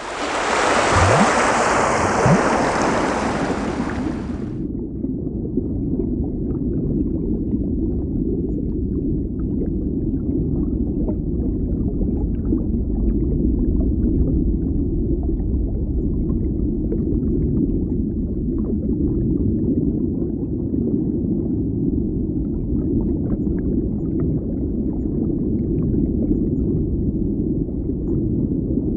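Underwater ambience: a steady, muffled low rumble of water with faint crackling above it. A bright hiss laid over it for the first four seconds or so cuts off suddenly.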